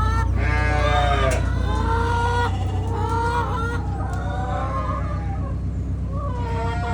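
Sheep bleating, about five drawn-out calls, the last with a wavering pitch, over a steady low hum.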